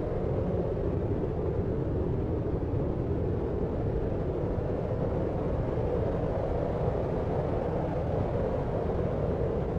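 Steady deep noise, weighted toward the low end like brown noise, with no separate events in it: a constant sleep-noise bed.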